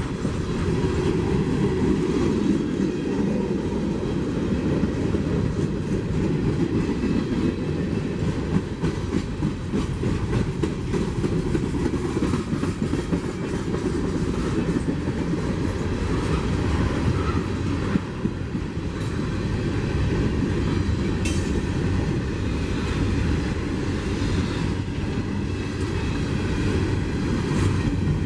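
CSX freight train's cars rolling steadily past on the rails.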